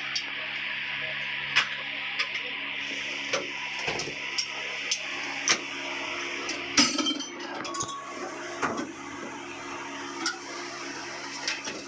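Metal hand tools and engine parts clinking and tapping during the strip-down of an engine's cylinder head: a dozen or so sharp clinks at uneven intervals, the loudest a little under seven seconds in, over a steady hiss and low hum.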